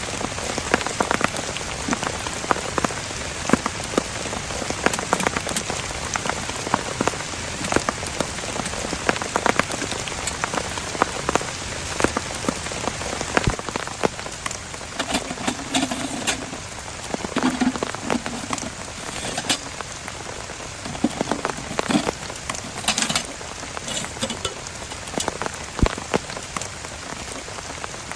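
Heavy rain falling steadily, with a dense patter of individual drops striking a nearby surface.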